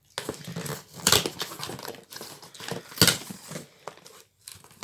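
A cardboard shipping box being opened by hand, its flaps and the packaging inside rustling and crinkling, with two louder crackles about a second in and about three seconds in.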